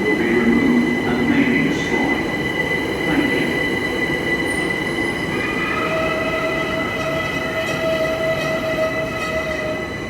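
Electric train moving through an underground station: a steady rumble of wheels on rail with a constant high whine, and about halfway through a second pitched whine that rises briefly and then holds steady.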